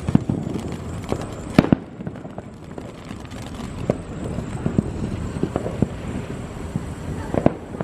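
Fireworks going off: a sharp bang about a second and a half in, another near the end, and scattered smaller pops in between.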